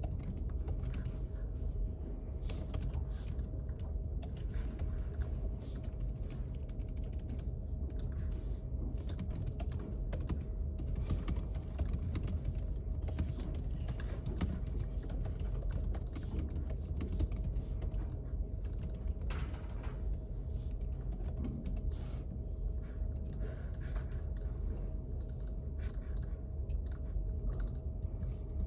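Computer keyboard typing: irregular runs of key clicks over a steady low hum.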